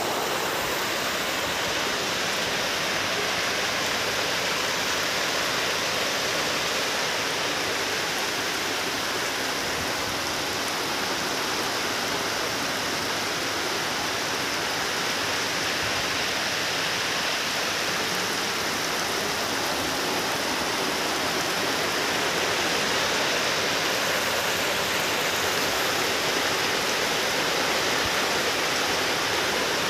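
Heavy rain falling on open fish-pond water: a steady, even hiss.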